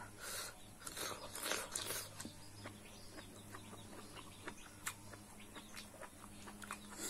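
Close-up chewing, with wet mouth smacks and small clicks as food is eaten, over a steady low hum.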